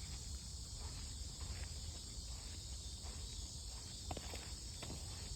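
Steady high-pitched insect chorus, with a low rumble underneath and a couple of short crunching clicks about four and five seconds in.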